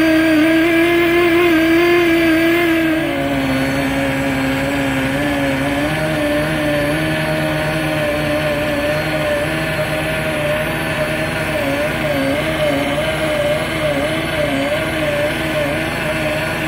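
Drive of the LP Stingray net cleaner's lifting spool hauling the scrubber up, a steady machine whine that steps down to a lower pitch about three seconds in as the reel slows, then wavers slightly.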